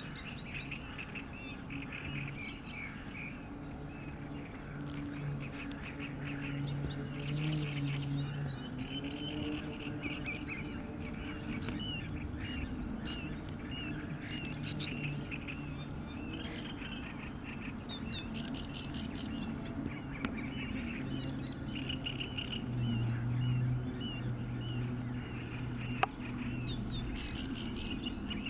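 A mixed group of birds calling, with many short chirps, whistles and chatter overlapping throughout. A low steady hum comes and goes underneath, and a single sharp click sounds near the end.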